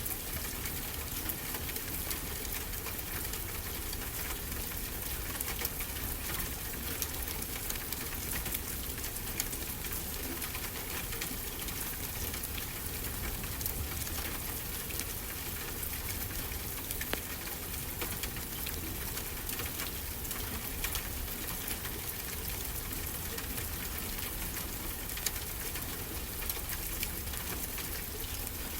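Fireplace crackle, many small irregular snaps and pops, over a steady wash of ocean surf.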